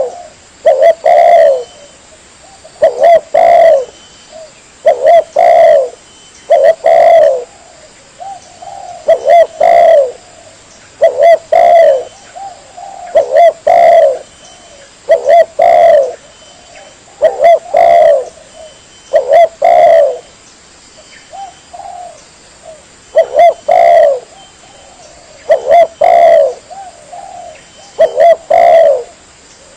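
Spotted dove (tekukur) cooing: a repeated phrase about every two seconds, each a short coo followed by a longer one. The calls are fainter for a couple of seconds past the middle.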